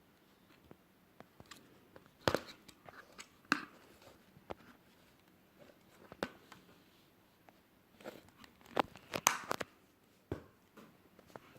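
Plastic packaging and small purchased items being handled: scattered crinkles and rustles with sharp clicks and taps, busiest about two seconds in and again near the end.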